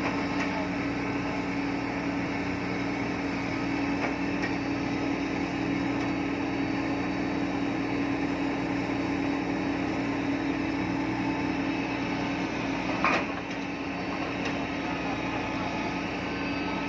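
Epiroc DM45 blasthole drill rig running steadily, a constant engine drone, with a single sharp knock about 13 seconds in.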